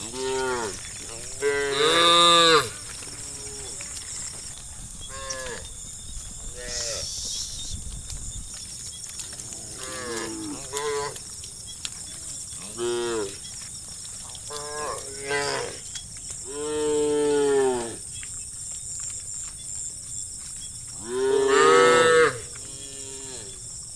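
Cattle mooing: about a dozen separate calls, some short and some drawn out, with the loudest about two seconds in, around seventeen seconds and near twenty-two seconds.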